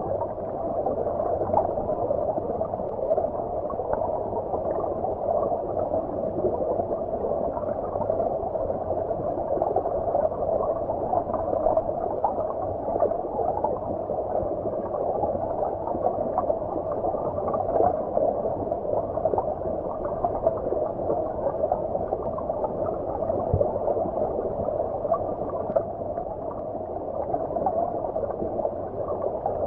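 Stream water flowing and gurgling, heard underwater: a steady, muffled rushing and bubbling with no high hiss.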